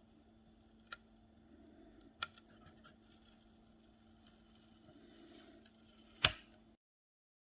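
Three sharp clicks of small hard parts being handled, over a faint steady hum. The third click, a little after six seconds in, is much the loudest, and the sound cuts off abruptly to silence shortly after it.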